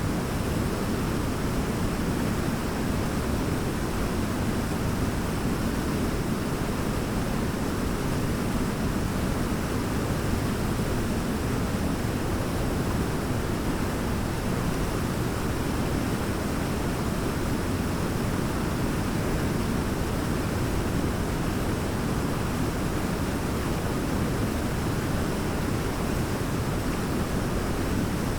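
Large waterfall: a steady, deep roar of falling water with no changes.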